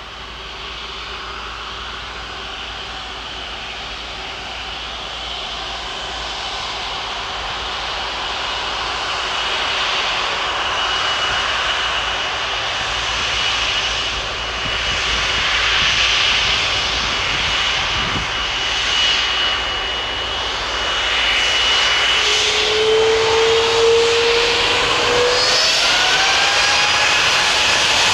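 Jet airliner's turbofan engines running and growing steadily louder, with a steady high whine. In the last few seconds the whine rises in pitch as the engines spool up.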